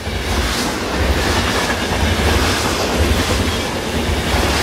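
Train in motion: a steady rumble and clatter with a low pounding that comes and goes.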